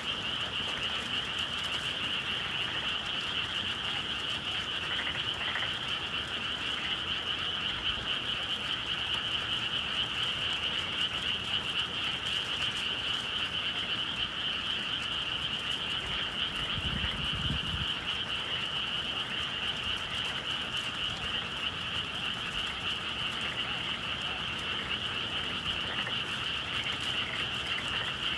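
Dense chorus of many frogs calling at once, a steady unbroken din. A brief low rumble comes through about two-thirds of the way in.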